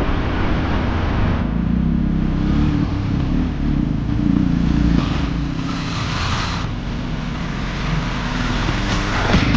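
Dual-sport motorcycle engine running at low, varying revs while riding a rough off-road trail, with a short spell of added rushing noise about five seconds in.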